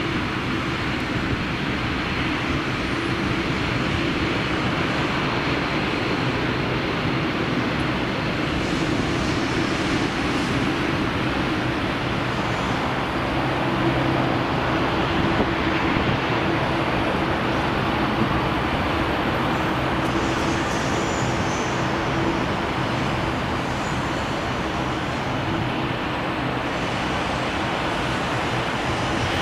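Steady engine rumble with a low droning hum that drifts slightly in pitch, continuous and without breaks.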